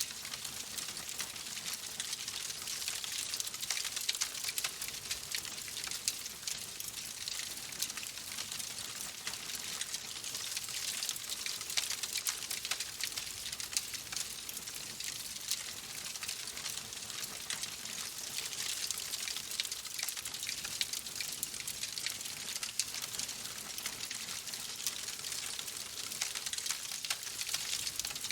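Wood fire crackling steadily in a fireplace: a constant hiss dotted with many small, sharp pops.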